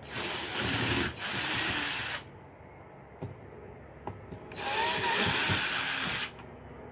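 Drill-driver backing old sheetrock screws out of a plastic barrel canoe's rib, run in two bursts of about two seconds each.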